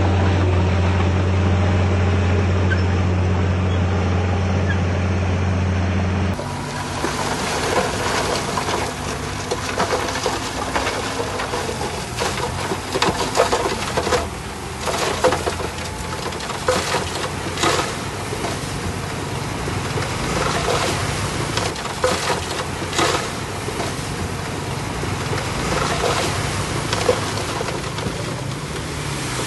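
A heavy diesel earthmoving machine's engine running steadily with a deep hum. About six seconds in the sound changes abruptly to a rushing, wind-like noise with irregular knocks and crackles, typical of machinery working soil on a site.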